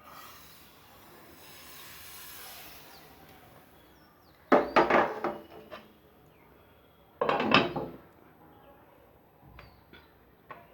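A soft hiss, then two loud clatters of metal utensils against cookware, each with a short ringing, and a few light ticks near the end.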